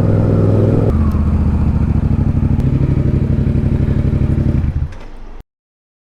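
Motorcycle engine running, dropping to a pulsing idle about a second in, then switched off near the end.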